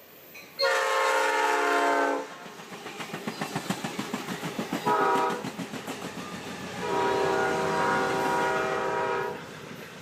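Train horn sounding three blasts, long, short, then long, with several notes at once. Between the blasts, the wheels clatter quickly and evenly over the rail joints as the train passes.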